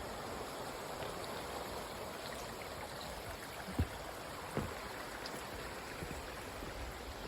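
Steady rush of a river running over rocks and small waterfalls, with two soft low thumps about halfway through.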